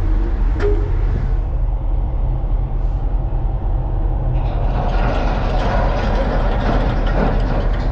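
Steady low rumble of a tanker's engine and machinery. A louder rushing noise joins about four seconds in.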